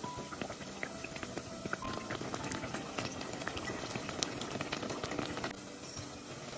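Potato balls frying in hot oil: dense bubbling and crackling that stops about five and a half seconds in.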